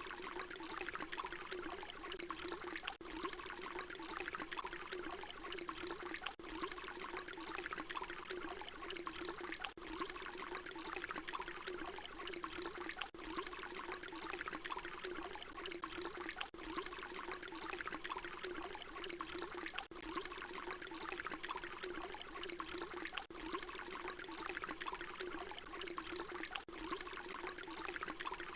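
Water pouring steadily in a continuous trickling stream. It is a short recording looped over and over, with a brief dip at each seam about every three and a half seconds.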